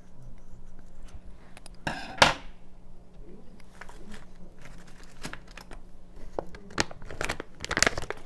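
Hands tearing and handling cooked chicken breast and its crinkly packaging: irregular rustling, crinkling and small clicks, with one sharper knock about two seconds in and a denser run of crackling near the end.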